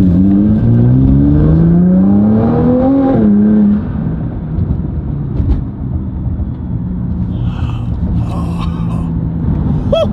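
Nissan GT-R's twin-turbo V6 under hard acceleration, its pitch climbing steadily for about three seconds. Near four seconds in it drops off and falls back to a quieter, lower, steady drone.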